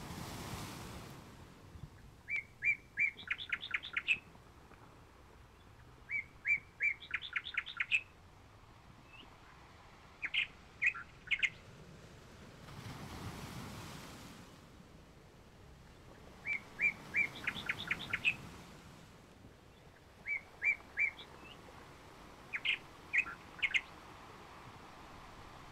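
Songbird singing: short phrases of quick, high chirps, each a second or two long, repeating every few seconds, over a soft rushing noise that swells and fades a few times.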